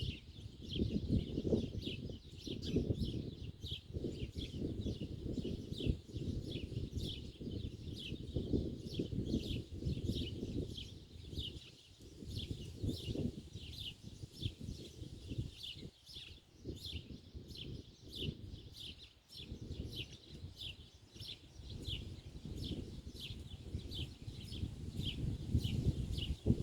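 A small bird chirping over and over, short quick downward notes about twice a second, over a steady low rumble.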